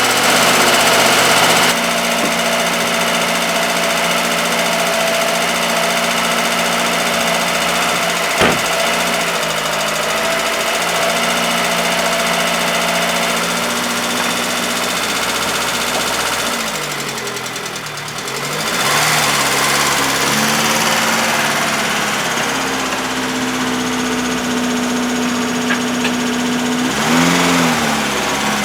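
Austin Princess engine running while the car is manoeuvred, with a sharp click about eight seconds in. Around halfway through the revs sag and then pick back up, and near the end they rise briefly.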